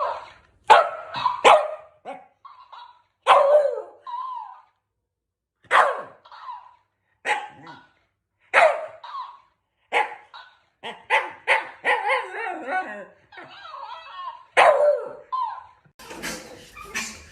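A dog barking repeatedly: many short single barks with brief pauses between them, coming faster in the middle.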